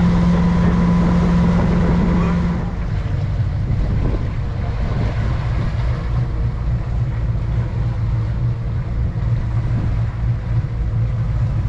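Motorboat engine running under way, with a steady hum that drops to a lower pitch and gets quieter about two and a half seconds in as the engine slows, then holds steady, with wind on the microphone.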